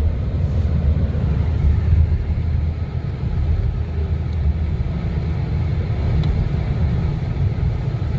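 Steady low rumble of a car driving along the road, even throughout with no distinct events.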